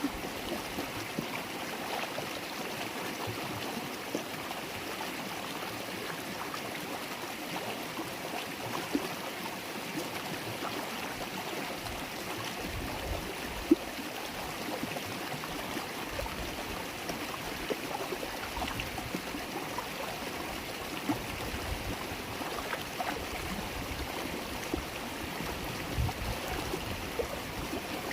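River water babbling and gurgling steadily as it flows, a continuous even rush with small splashy flickers. A few low bumps come in over the second half, with one sharp tap about fourteen seconds in.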